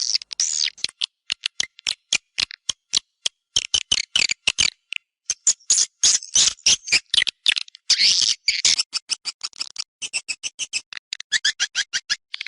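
Swiftlet calls from a swiftlet-house lure recording: quick dry clicks, several a second, mixed with high twittering chirps.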